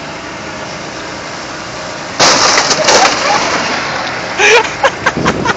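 A television being crushed under a truck's tyres: a sudden loud crash of breaking glass and plastic about two seconds in, followed by irregular cracking and crunching.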